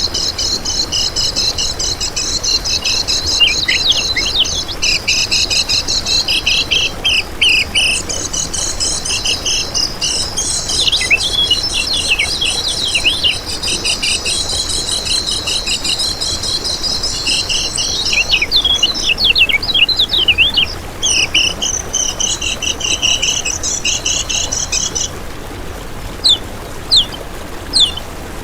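Kecial kuning (yellow-spectacled white-eye) singing a fast, continuous high-pitched chattering song laced with quick downward chips. About 25 seconds in the steady song breaks off into a few scattered short chirps, then starts again at the very end.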